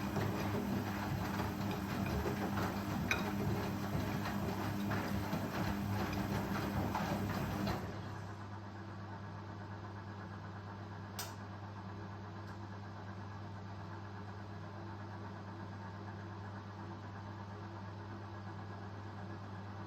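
Indesit Ecosense washing machine running with a steady motor hum and clicking and rattling from the drum. About eight seconds in, the noise drops and thins to mostly the hum, with a single sharp click a few seconds later.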